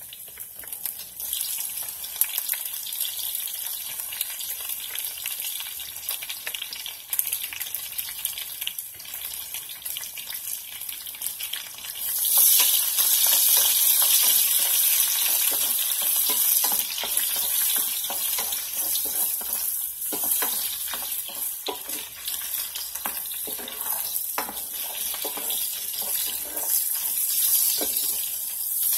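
Pork, garlic and onions sizzling in a stainless steel sauté pan, with a spatula stirring and scraping through them; the sizzle gets louder about twelve seconds in.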